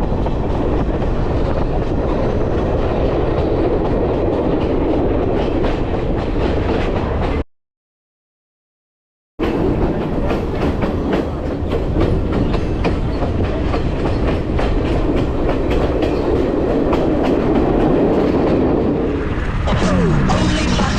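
Train running on the rails, a steady rattling rumble with wheels clacking over the rail joints. It cuts out for about two seconds partway through.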